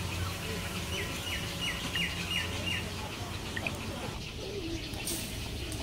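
A bird calling a quick run of about six short, high chirps, each falling in pitch, over a steady low background hum.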